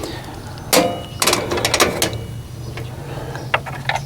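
Metal bolts and tools clinking and rattling while being handled, a burst of sharp clicks with brief ringing about a second in and a few lighter clicks near the end, over a steady low hum.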